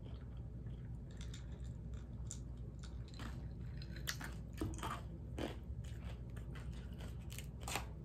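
Close-miked mouth sounds of chewing and swallowing, with lip smacks and scattered small clicks.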